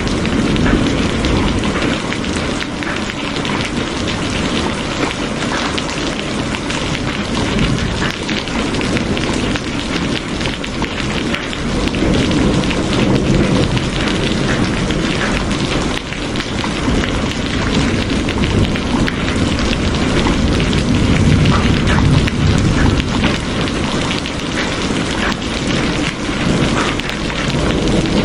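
Steady, heavy rainfall, a dense, even hiss of rain on surfaces, with low rolling thunder that swells up around the middle and again near the end.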